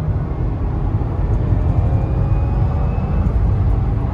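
Stock 2019 Subaru WRX heard from inside the cabin while driving: a steady low drone of its turbocharged flat-four engine and quiet stock exhaust, mixed with road and tyre rumble.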